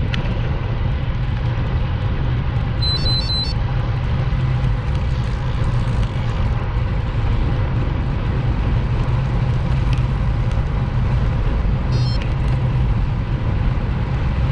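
Steady road rumble and wind rush of a motorcycle under way, with no changes in engine speed. About three seconds in there are three short, high beeps.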